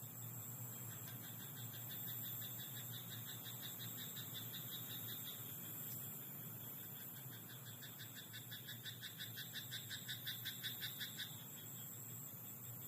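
Frogs croaking in a rice paddy at night: two long runs of quick, evenly repeated notes, about five a second, the second run growing louder before it stops near the end.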